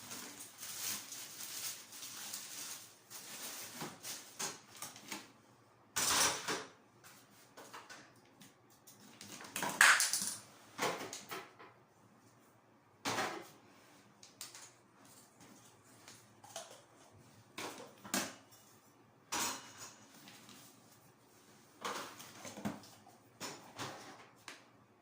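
Scattered knocks, clatters and short scraping sounds of cleaning items being handled and set down in a small room, coming every few seconds with the loudest about ten seconds in.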